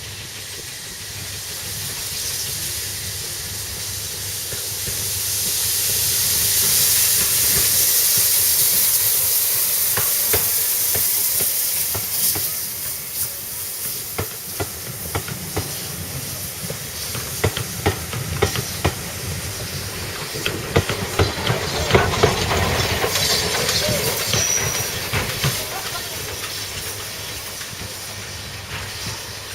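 Steam locomotive hissing steam, the hiss swelling to its loudest in the first third, then a run of sharp knocks and clanks that comes thickest about two-thirds of the way through as the hiss carries on.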